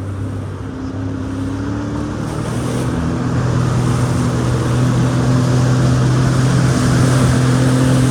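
Yamaha jet ski engine running under way; about two to three seconds in its pitch steps up and it grows louder as the throttle opens, over a steady rush of water.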